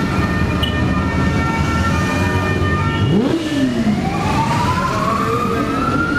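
A siren that starts about halfway through and rises slowly in pitch, over steady engine noise and held tones from the crowd of vehicles.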